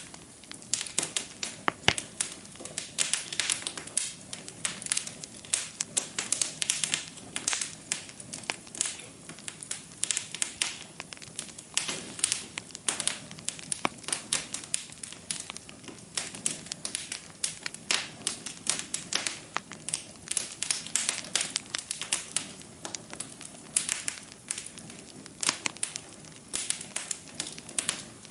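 Wood fire burning in a fireplace, crackling and popping: many sharp irregular snaps over a faint steady hiss.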